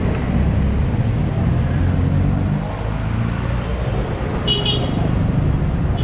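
Steady low rumble of passing road traffic, with a short high-pitched beep about four and a half seconds in.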